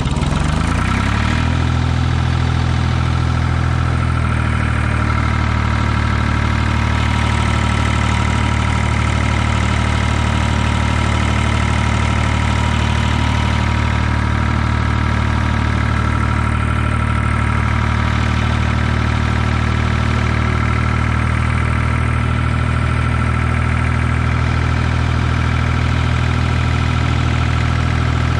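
Ford 2000 tractor's diesel engine picking up speed in the first second or so, then running steadily.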